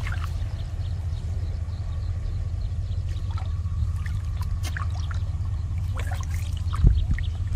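Water running and trickling steadily under a low rumble, with faint scattered splashes and ticks. A few heavier thumps or splashes come near the end.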